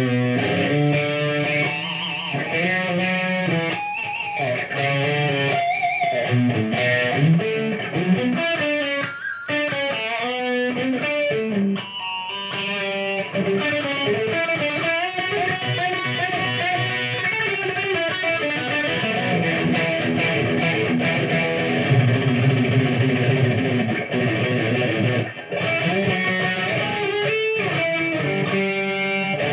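Fender HHH electric guitar played through effect pedals into a Marshall AVT50 amplifier: a run of sustained notes and chords that changes pitch every second or so, with brief breaks in the playing about twelve seconds in and near the end.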